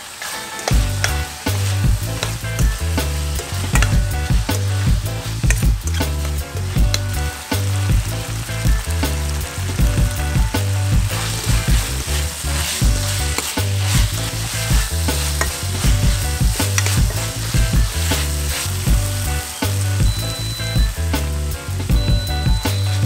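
Ground pork and vegetables frying in a stainless steel pan, a steady sizzle with a metal spoon scraping and clacking against the pan as the mixture is stirred. The sizzle grows brighter about eleven seconds in, when chopped green leaves go into the pan. Low background music plays underneath.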